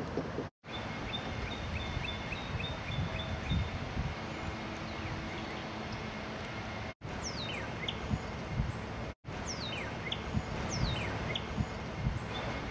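Birds calling along a bayou over a steady low background of outdoor noise: a short high note repeated about twice a second, and several quick downward-sliding whistles in the middle stretch. The sound drops out completely for a moment three times.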